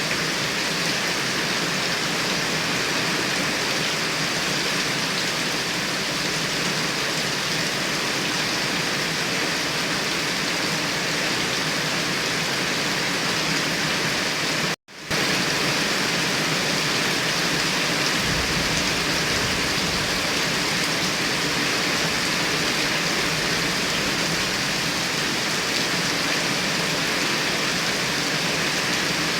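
Heavy rain falling steadily: a dense, even hiss. The sound cuts out for a split second about halfway through.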